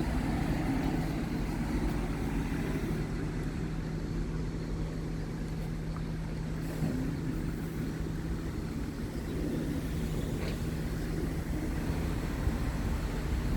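Scania R truck's diesel engine idling steadily, a constant low rumble with an even hum.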